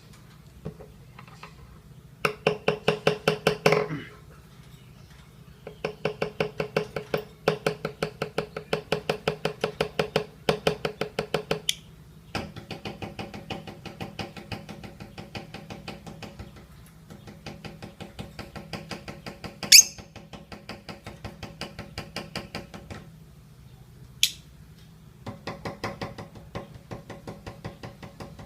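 Lovebird ngekek: long runs of rapid chattering notes, about ten a second, each run going on for several seconds before a short break, with two brief sharp chirps between the later runs.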